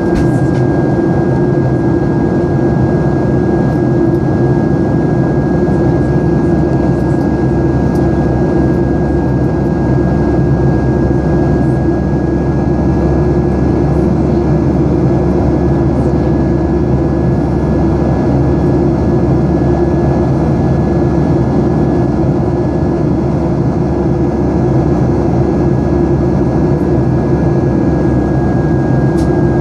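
Boeing 737-800's CFM56-7B jet engines heard from inside the passenger cabin: a loud, steady roar with a thin, constant high whine over it.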